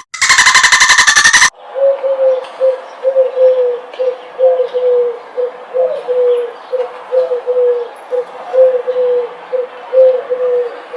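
Pigeon cooing: low coos in short-long pairs, repeated steadily. Before them, a loud rapid pulsed buzz cuts off after about a second and a half.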